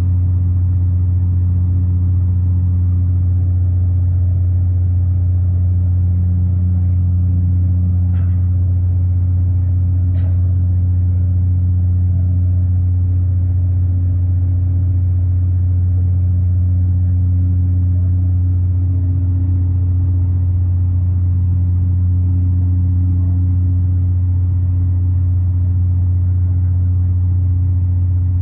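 Cabin noise of a Dash 8 Q400 turboprop in flight: a deep, steady propeller and engine hum, unchanging throughout, heard from inside the cabin by the window.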